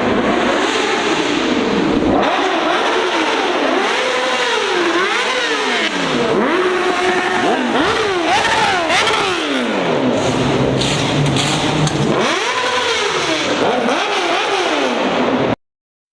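A car engine being revved over and over, its pitch climbing and falling back about once a second. The sound cuts off suddenly near the end.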